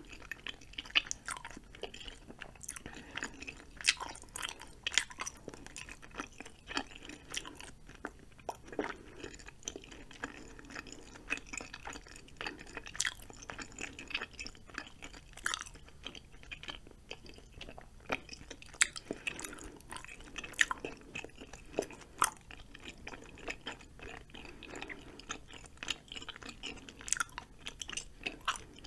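Mouth chewing of cheesy spicy ramen noodles and chewy rice cakes, with many sharp, irregular mouth clicks.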